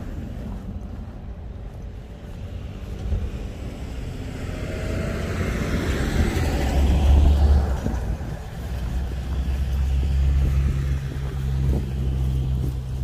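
A car driving past on a street, its noise swelling to loudest about six to seven seconds in and then fading, over a steady low rumble of traffic.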